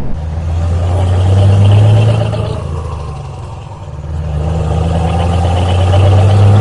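Scania V8 truck engine running with a strong, steady low note, growing louder to a peak about two seconds in, easing off, then building again near the end.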